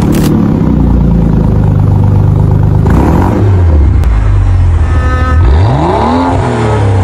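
BMW M5 F10's twin-turbo V8 running steadily, its pitch sagging a little about three seconds in. Near the end it is revved once, the pitch climbing sharply and then falling away.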